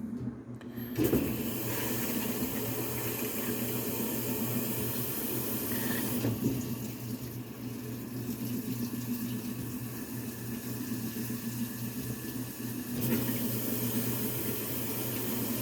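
Washing machine running water: a steady rush of water starts about a second in, over a low steady hum from the machine.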